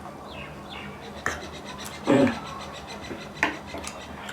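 Eating sounds during a noodle meal: a few sharp clicks of utensils against the dishes, with a short voiced sound about two seconds in.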